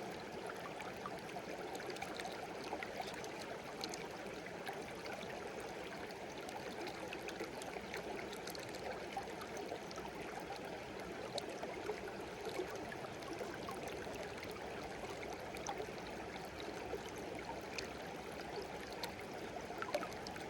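Small stream flowing over stones, a steady babble and trickle with scattered bright splashes.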